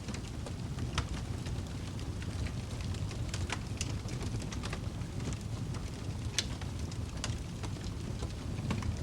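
Wood fire burning in a fireplace: a steady low rumble of flames with scattered sharp crackles and pops, the loudest about six seconds in.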